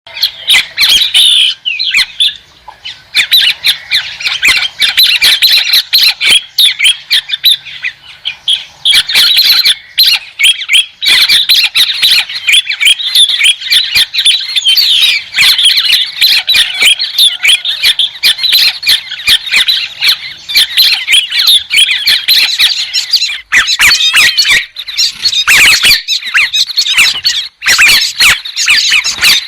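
A bird's loud, rapid chattering calls, going almost without pause, with short lulls a couple of seconds in and again around a third of the way through; it is the bird the title calls 'héc soan', the white-headed bird.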